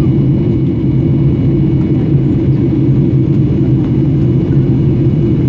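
Airplane cabin noise in flight: a loud, steady low drone of the engines and rushing air, with a faint steady high whine above it.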